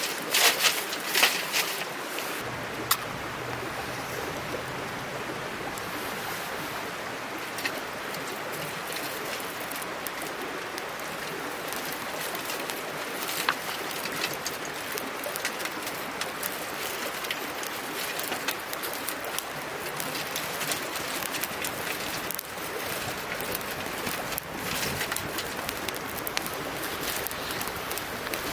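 Small mountain stream babbling steadily, with a dove cooing over it. A few sharp clicks come in the first two seconds and once or twice later.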